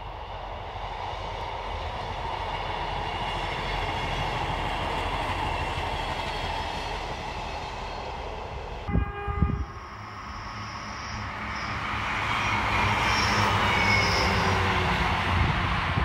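Diesel multiple-unit passenger train passing, a steady rumble of engine and wheels on the rails. About nine seconds in the sound cuts, with a couple of thumps, and a second diesel unit comes past, growing louder as it nears.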